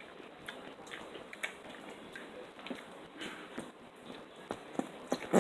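Faint chewing of zucchini pieces: scattered small crunches and mouth clicks, with a somewhat louder click near the end.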